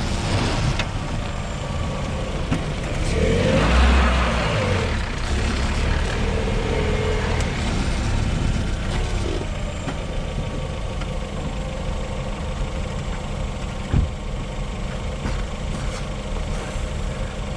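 LADA Vesta SW Cross driving over a badly broken dirt road: continuous rumble of tyres and suspension working over the ruts, with the 1.8 engine revving up and dropping back about four seconds in and a single sharp knock near the end. The updated SAAZ struts are on show here, which the owner holds to work excellently.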